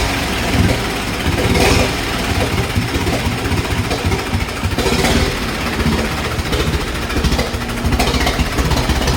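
Large vintage engine of a 1914 fire truck converted into a race car, running at idle with a rough, uneven low beat.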